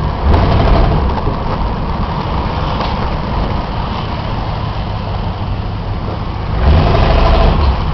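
Muscle car engine running with a steady low rumble, getting louder for about a second near the end.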